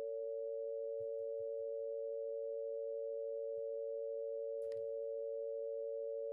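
Two pure sine tones held together steadily, forming a 5:4 major third: the root Bb at 460.8 Hz and D at 576 Hz of the Harmonics of Nature tuning scale.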